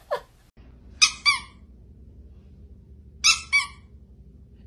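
A high-pitched squeak heard twice, each time as a quick pair of squeaks, about two seconds apart.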